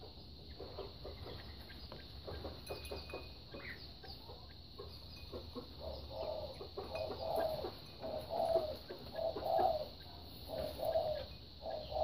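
A bird's short, low calls repeated about once a second from about six seconds in, with faint light taps before them.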